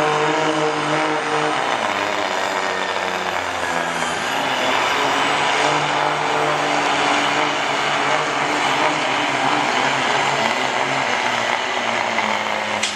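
Diesel pickup engine running hard under load, pulling a weight sled down the track. The engine note is loud and steady, and its pitch shifts in steps a couple of times in the first few seconds.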